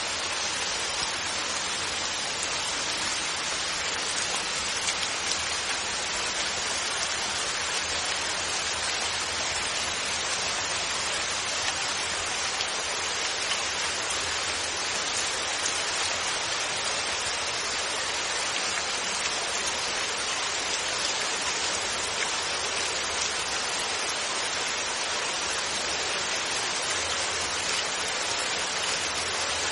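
Rain falling steadily: an even hiss of drops, with no thunder.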